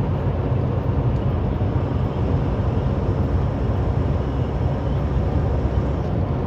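Steady drone of a semi truck's diesel engine and road noise heard inside the cab while cruising at about 56 mph, with a deep rumble and no change in pace.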